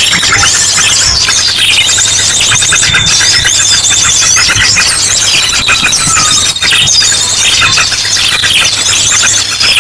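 Bird-lure recording of a dense, noisy chorus of small birds chattering and trilling, mixed with the sharp song bursts of an ashy drongo. A few longer high notes run through the rapid chirps.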